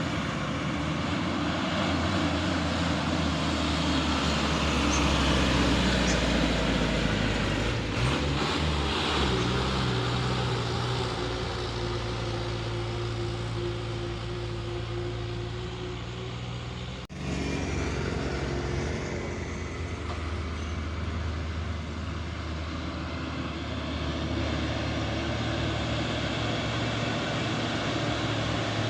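Heavy truck engines running steadily on a steep roadside climb, with traffic noise. The sound breaks off sharply about 17 seconds in and picks up again with a slightly different engine note.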